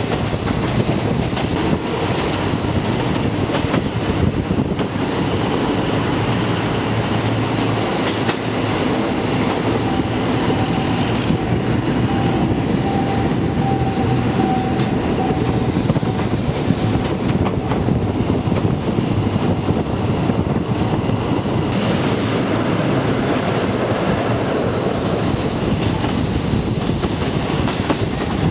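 Diesel passenger train running along the track: a steady loud rumble with wheels clicking over rail joints, and a faint thin whine from the middle of the stretch.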